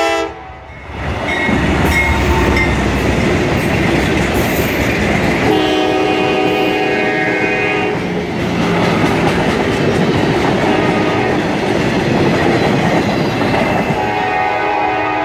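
A CSX spray train passes at close range, its locomotive horn chord cutting off just after the start. Then comes the loud steady rumble and clicking of the locomotive and cars rolling by. The horn chord sounds again, fainter, from about 5.5 to 8 seconds and from near the end.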